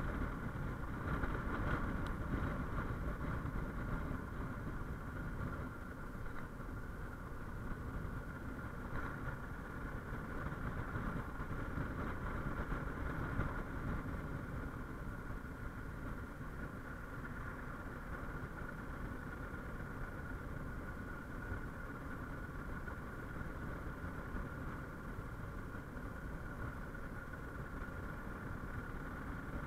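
Suzuki XF650 Freewind's single-cylinder engine running at a steady cruise of around 50 km/h, heard through the built-in microphone of a chest-mounted action camera.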